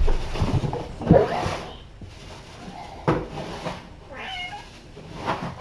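A cat meows once, briefly, a little past the middle, amid rustling and a few knocks from handling in the first half.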